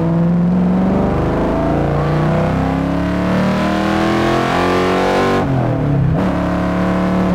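The Type 65 Coupe-R's 5.2-liter Ford Racing V8, heard from inside the cabin, pulling hard with the revs climbing. About five and a half seconds in, the engine note eases off, then climbs again.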